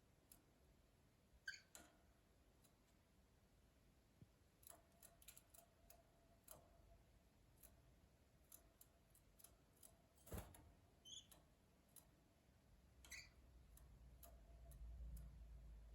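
Gloster canaries moving about their cage: faint, irregular clicks and taps, with a few brief high-pitched peeps.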